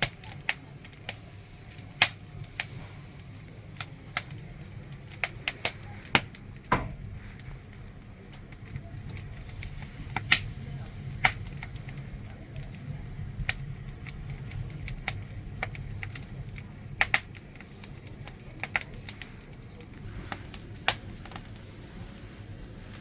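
Firewood fire crackling under an iron rice cauldron, with sharp irregular pops over a steady low rumble.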